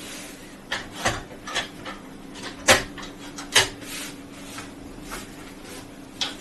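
Irregular sharp clicks and knocks of something being handled, about six in all, the loudest two in the middle, over a steady low hum.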